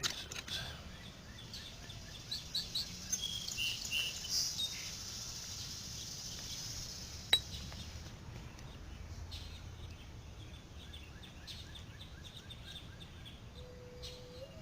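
Birds chirping over a low steady background hiss, with one sharp knock about seven seconds in.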